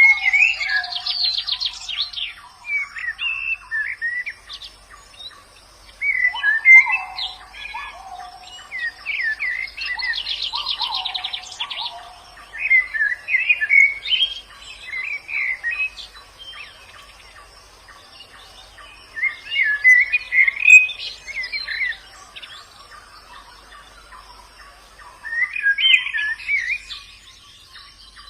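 White-eye (pleci) birds singing: bursts of quick twittering chirps every few seconds, some with a fast buzzy trill and a few lower whistled notes.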